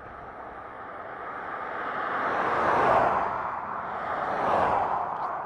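Highway traffic going past: tyre and wind rush of a vehicle swells to its loudest about three seconds in, with a second vehicle passing about a second and a half later.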